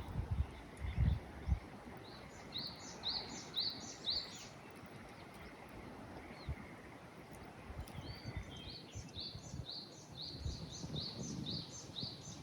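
A songbird singing runs of short, quickly repeated high chirps, twice, over steady outdoor background noise. A few low thumps come in the first second or so.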